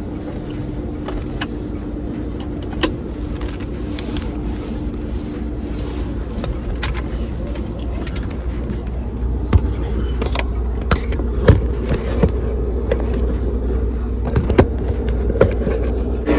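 Steady low rumble of a car, with scattered clicks and knocks from hand-wiping and handling things in the car's door pockets. The knocks come more often and louder in the second half.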